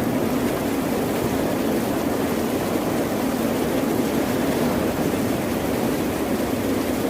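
Steady, even roar of ocean surf, with no single wave breaking out of the constant wash.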